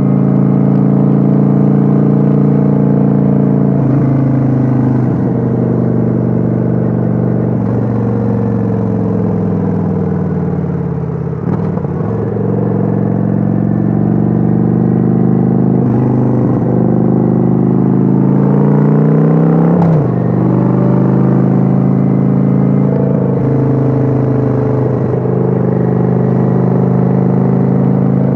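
Kawasaki Vulcan 900's V-twin engine running under way, heard on board. Its pitch sags and climbs with throttle and gear changes, dipping lowest around the middle and rising sharply before a break about two-thirds through.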